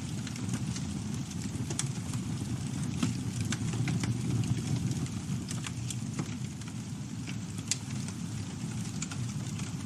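Campfire burning: a steady low rush of flames with frequent sharp crackles and pops from the burning wood at irregular intervals.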